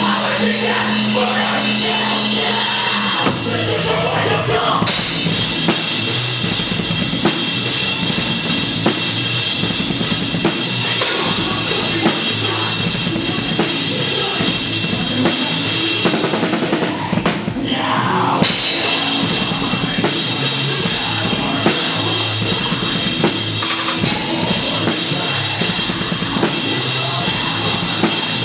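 A live rock band playing loudly, with the drum kit prominent: bass drum and cymbals under guitars. A held chord rings for the first few seconds before the full band comes in.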